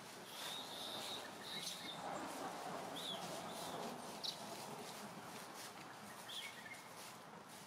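Birds chirping: a few short, high chirps spread over several seconds, one held a little longer near the start, over a faint steady outdoor hiss.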